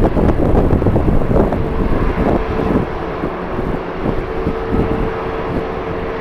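Strong gusty wind buffeting the microphone in irregular rumbling surges, over a steady jet airliner engine tone.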